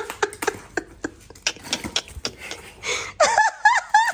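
A string of short, sharp clicks and taps, then about three seconds in a person breaks into quick, high-pitched laughter, several bursts in a row.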